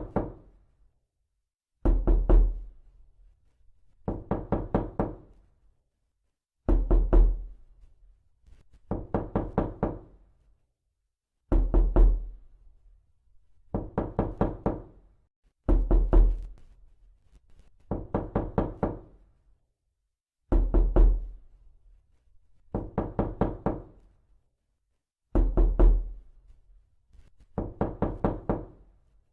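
Knocking on a door in quick runs of several raps, repeating every two seconds or so, about a dozen times. Some runs open with a heavy thud.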